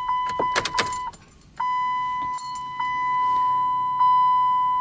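Car keys jangle and click as the ignition of a 2008 Dodge Caliber SRT-4 is switched off and on after a tune is flashed to its engine computer. Then the car's warning chime sounds as a steady ding, repeating about every second and a quarter.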